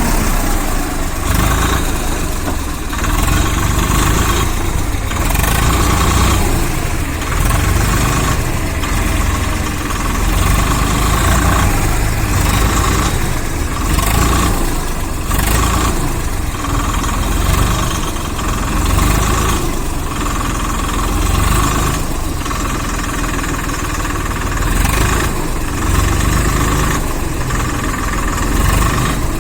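Heavy diesel engine running steadily, its sound swelling and easing every one to two seconds.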